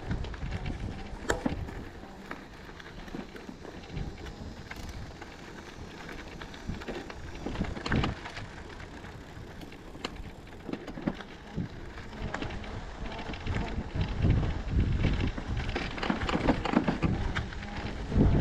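Riese & Muller Roadster e-bike being ridden: wind buffeting the microphone and tyre noise, with scattered knocks and rattles that get louder and busier near the end.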